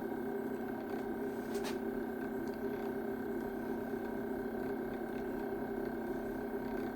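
6040 CNC router's Z-axis stepper motor driving the axis slowly, a steady electric whine with one brief click about two seconds in.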